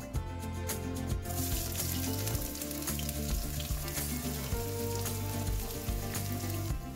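Sliced shallots and garlic dropped into hot oil in a wok, bursting into a sizzle about a second in and then frying steadily. Background music plays underneath.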